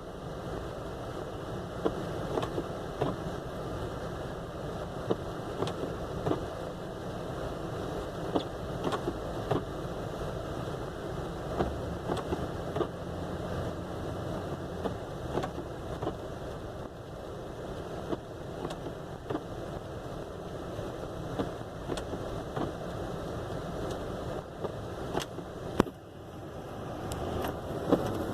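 Vehicle driving along a snow-covered road: a steady running rumble with frequent short clicks and knocks scattered through it, growing louder near the end.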